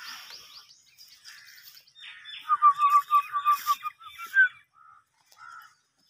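Birds calling: a quick run of high falling chirps, then about two seconds in a louder rapid string of short clear notes that ends on a rising note.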